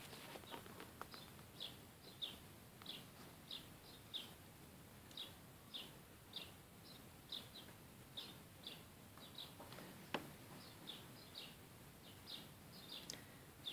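A bird chirping faintly and over and over, short high chirps about two a second, with one sharp click about ten seconds in.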